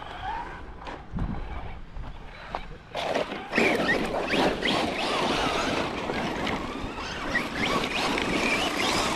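Electric RC truck driving hard over dirt and gravel: its motor whines up and down in quick glides over the crunch of tyres on loose ground, starting about three seconds in.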